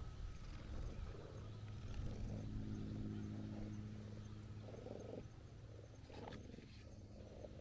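Brown tabby cat purring, a steady low rumble that swells about two seconds in and fades after about three seconds, with a few soft rustles near the end.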